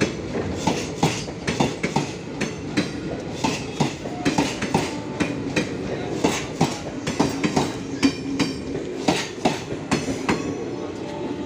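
Passenger train coaches rolling past, the wheels clacking over rail joints in a quick, uneven run of sharp clicks over a steady rumble.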